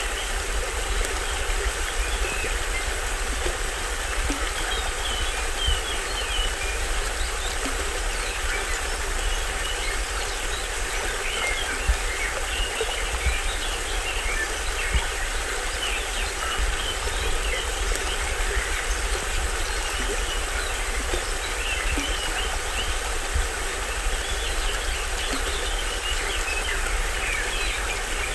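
Small waterfall on a stream splashing steadily, with a low rumble underneath, while forest birds chirp and call in many short, scattered notes.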